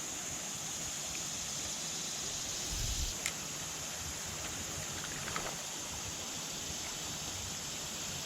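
Steady rush of water flowing at an old river dam, with a low bump and a sharp click about three seconds in.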